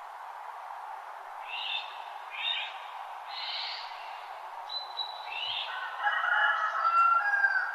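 Wild birds calling in a dawn chorus: several short chirps and a thin whistle, then a louder warbling song for the last couple of seconds, over a steady background hiss.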